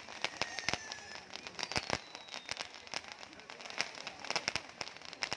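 Fireworks going off close by: a rapid, irregular run of sharp pops and crackles, with two faint falling whistles in the first half.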